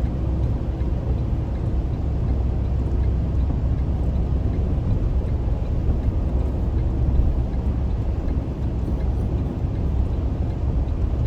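Steady low rumble of a car driving on the highway, heard from inside the cabin: engine and tyre noise.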